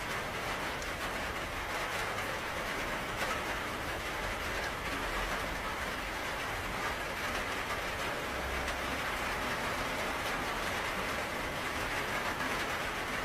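Steady heavy rain falling, an even hiss without breaks.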